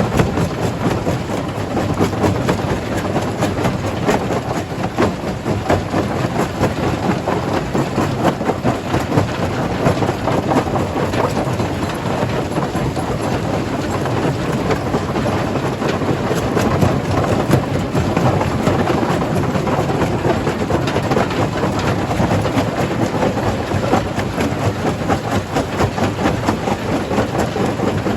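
Jaw crusher crushing stone: a continuous heavy rumble packed with dense rattling and cracking of rock breaking and tumbling through the machine.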